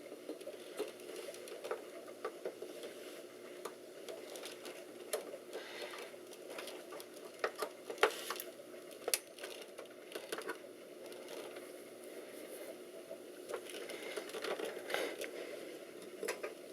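Irregular small clicks and plastic knocks as RAM modules are handled and pushed at a desktop computer's memory slots, over a steady low hum.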